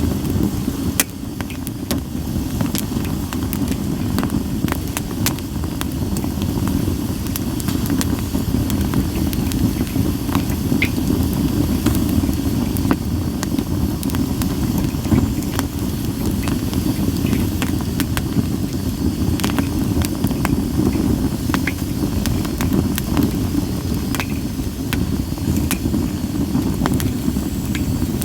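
Campfire of split sawtooth-oak (kunugi) firewood crackling, with scattered sharp pops over a steady low rumble.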